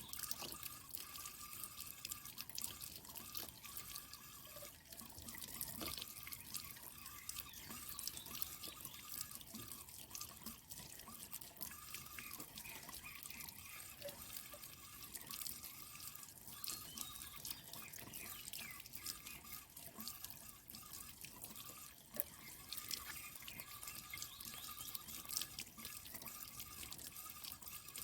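Water dripping and trickling steadily, a continuous patter of small drops.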